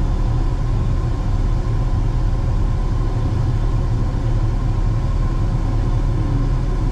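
Steady low rumble of a Ford F-150 pickup's engine and road noise heard from inside the cab, moving slowly in traffic.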